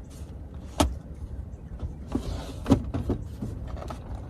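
Handling knocks and clicks as a portable table and laptop are set up inside a minivan: a sharp knock about a second in and a louder one a little before three seconds, with lighter ticks between, over a low steady rumble.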